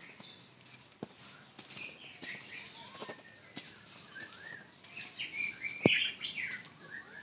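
Small birds chirping in short tweets, with a few sharp clicks; the loudest click comes about six seconds in.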